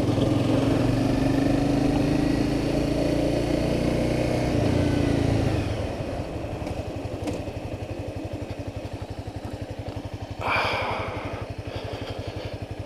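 Honda CBR300R single-cylinder motorcycle engine running at higher revs, then dropping to a steady, evenly pulsing idle about six seconds in. A brief rush of noise comes about ten seconds in.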